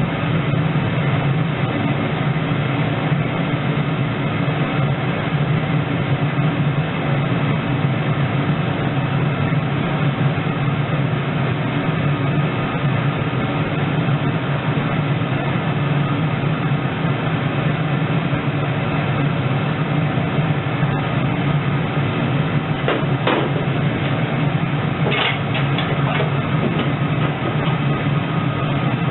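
A steady, loud mechanical drone with a deep hum, unchanging throughout, and two brief clicks or knocks near the end.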